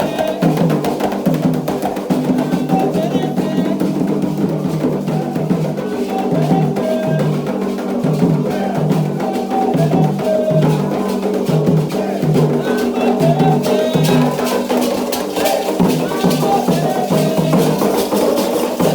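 Candomblé ritual music: hand drums and struck percussion keeping a steady rhythm under chanted singing, with the percussion growing denser near the end.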